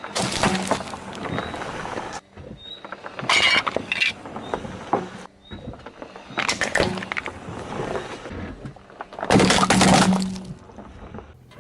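Objects cracking and crunching as they are crushed under a car's tyres, in about four separate crushes a few seconds apart.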